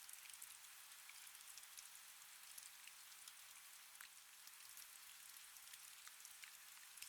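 Faint, steady rain: an even hiss with many small drop ticks scattered through it.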